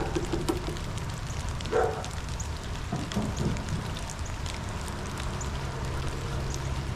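Steady rain falling, with scattered drops ticking, and a few brief louder sounds about two and three seconds in.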